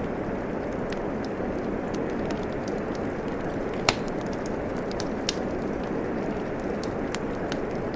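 Steady rain with a wood fire crackling: scattered small crackles, a sharp pop just under four seconds in and a smaller one a little after five.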